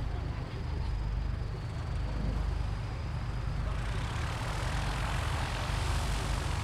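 Light propeller aircraft's piston engine running, with a steady low drone. About four seconds in, a broader rushing noise builds as the aircraft comes closer.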